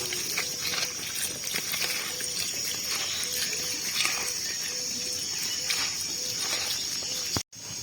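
Steady high-pitched drone of insects, with irregular light splashing of water as the pumpkin leaves are washed.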